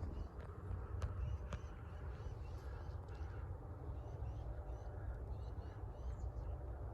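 Small birds chirping in woodland, many short high calls scattered throughout, over a steady low rumble. A few sharp clicks sound in the first two seconds.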